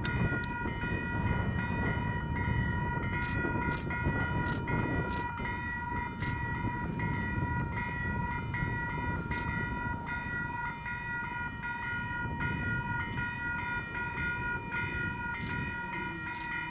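Level-crossing electronic bells (Western Cullen Hayes e-bells) ringing for an approaching train: a rapid, steady electronic dinging made of several stacked tones, over a low rumble with scattered clicks.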